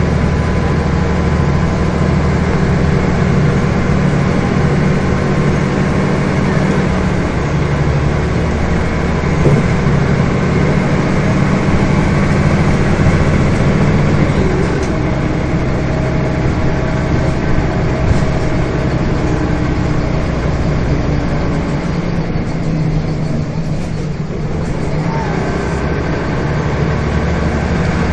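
Scania bus engine running under way, heard from on board, with road noise; the engine note shifts several times as the bus speeds up and slows, easing off a little after twenty seconds before picking up again.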